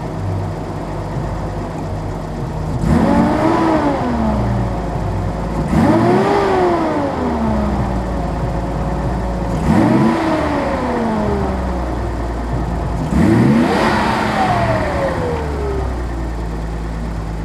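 1983 Datsun 280ZX Turbo's turbocharged 2.8-litre inline-six idling, with the throttle blipped four times: each rev climbs quickly and sinks slowly back to idle. The engine idles badly when cold, which the owner suspects is a fuel injector, fuel pump or fuel pump damper problem.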